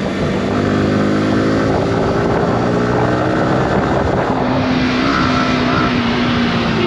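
Yamaha R15 V4's 155 cc single-cylinder engine running at a fairly steady speed while riding, with road and wind noise. A higher steady tone joins about five seconds in.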